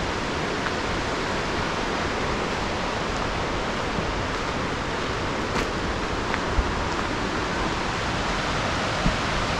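Steady rushing of a large waterfall and the river below it, an even, unbroken roar of falling water.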